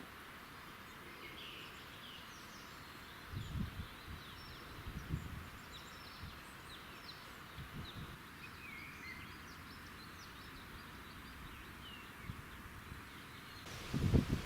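Small birds chirping and calling, many short high calls over a faint steady hiss, with a few dull low thumps.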